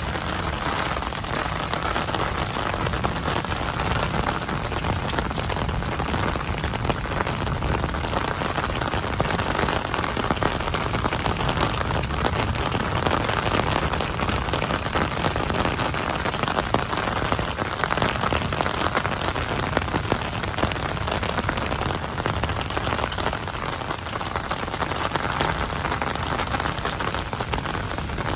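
Steady rainfall, a dense even patter of many raindrops hitting a surface.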